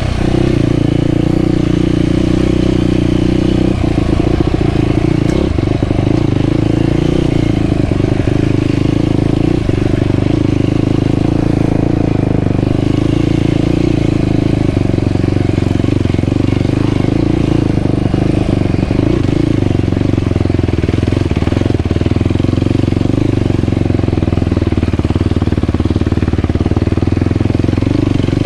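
Yamaha YFZ450R quad's single-cylinder four-stroke engine running steadily at speed, its pitch holding fairly level, with a few sharp knocks around four to six seconds in.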